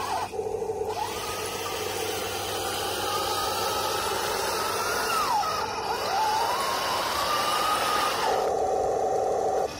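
1:16 RC M26 Pershing tank model running, the whine of its small electric drive motors and gearboxes rising and falling in pitch as it changes speed. A different steady hum comes in for about a second and a half near the end.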